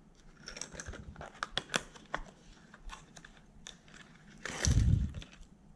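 Plastic lure packaging being handled and opened: light crinkling and clicking of the plastic, with one louder dull rustling thump near the end.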